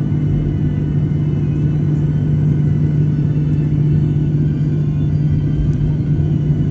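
Aircraft engine noise: a steady low rumble with a constant deep hum.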